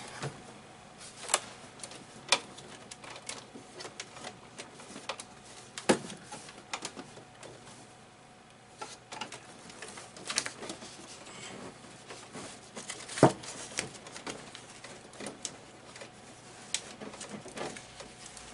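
Irregular light clicks, taps and knocks of hands handling cables and setting a hard drive into place, with a sharper knock about six seconds in and another near the middle.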